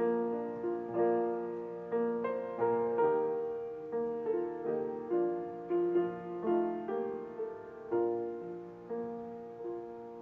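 Solo piano playing a slow, gentle piece, single notes and chords struck and left to ring, dying away near the end.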